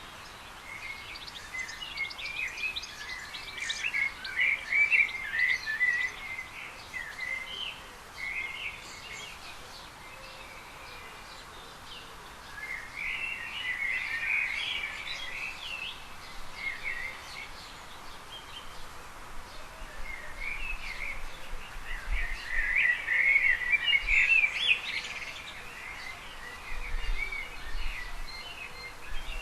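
Small birds chirping and twittering in three bouts of rapid, high chirps over a steady outdoor background hiss.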